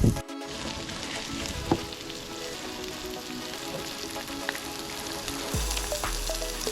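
Yakisoba noodles and vegetables sizzling as they fry in a pan, with a few sharp clicks of stirring, loudest just after the start and about 1.7 s in. A low rumble comes in near the end.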